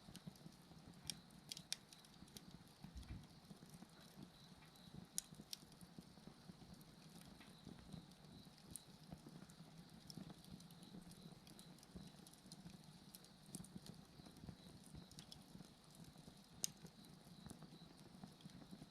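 Bonfire burning faintly, with scattered sharp crackles and pops of the burning wood, over a steady high-pitched chirping of insects.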